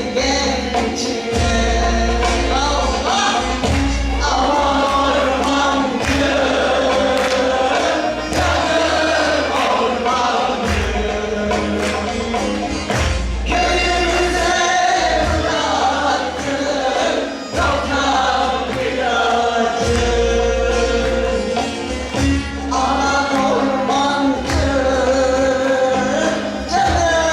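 Turkish folk music (türkü) choir singing in unison with instrumental accompaniment, over a steady percussion beat.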